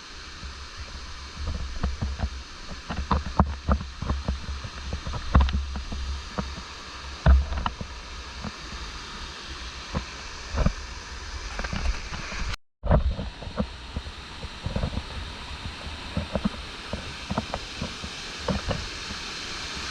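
Stream water rushing steadily over rocks, with wind rumbling on the microphone and scattered knocks and scuffs. The sound cuts out briefly about two-thirds of the way through, then carries on.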